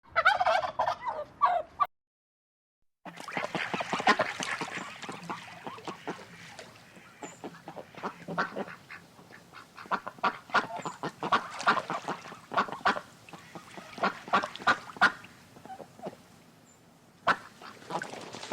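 Domestic waterfowl calling: after a short burst of calls and a brief gap, a long stretch of many short, rapid honking calls from several birds.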